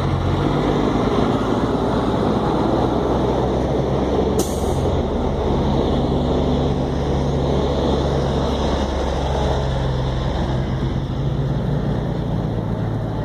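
Heavy freeway traffic, trucks among it, rushing past close by in a loud, steady wash of tyre and engine noise. A short, sharp hiss cuts in about four seconds in.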